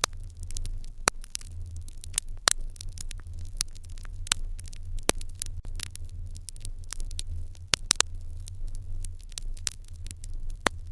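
Wood fire crackling in an irori hearth: frequent sharp pops and crackles at irregular intervals over a steady low rumble.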